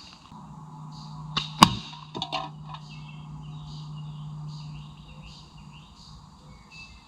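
A slingshot shot: a sharp snap, then a louder crack about a quarter second later as the ball strikes the target, followed by a short rattle. Birds chirp in the background.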